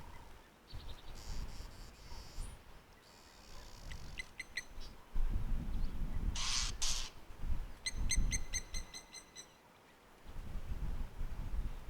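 A wild bird calling: a quick run of short, clear, high notes about four seconds in and a longer run about eight seconds in, with two harsh rasping bursts between them.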